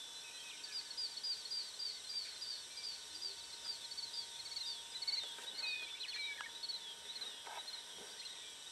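A small bird calling in a long, even run of short high chirps, about five a second, over a steady outdoor background hiss.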